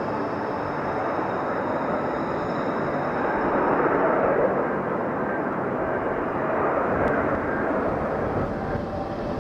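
Jet noise from an F-35B Lightning II's turbofan engine, a steady rushing sound that swells louder about four seconds in and again around seven seconds.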